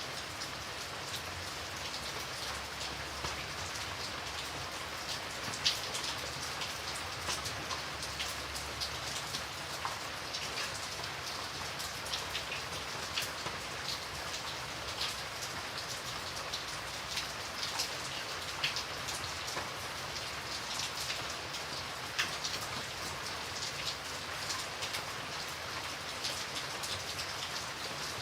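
Steady rain falling, an even hiss with many sharp drop impacts pattering through it.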